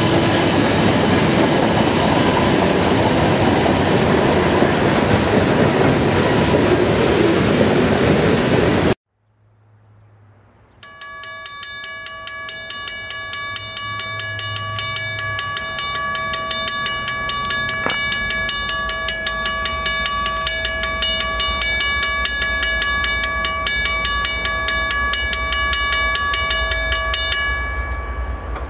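A freight train's tank cars and boxcars roll past with loud, even wheel-and-rail noise, which cuts off abruptly about nine seconds in. After a brief near silence, a steady high warning sound of several stacked tones starts and holds for about sixteen seconds. Beneath it, the low rumble of an approaching Norfolk Southern freight locomotive grows louder.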